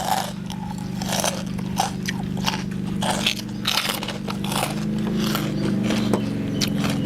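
Close-up crunchy chewing of crisp fried pork rind (khaep mu), a run of irregular crackling crunches. Under it is a steady low hum that grows louder toward the end.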